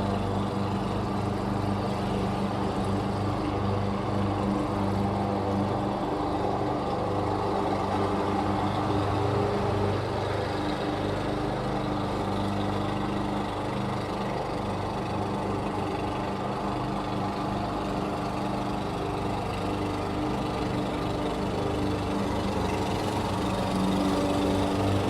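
Lawn mower engine running steadily, getting a little louder near the end.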